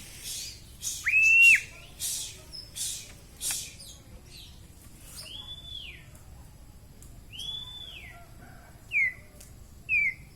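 Young white-rumped shama singing, showing off its repertoire: scratchy, high-pitched chattering notes in the first few seconds, then clear whistles, three long arched ones and two short falling notes near the end.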